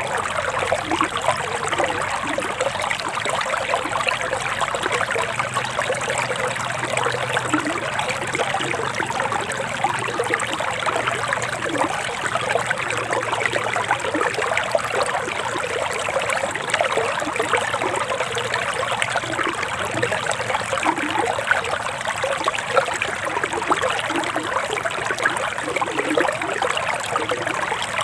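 Forest stream flowing with a steady, busy trickle of water.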